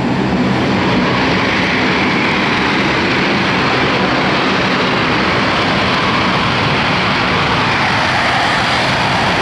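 Airplane engine noise at an air show, a loud steady rushing drone with no clear pitch.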